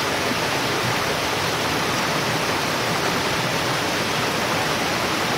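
Steady rushing noise of water that holds even, with no breaks or separate strikes.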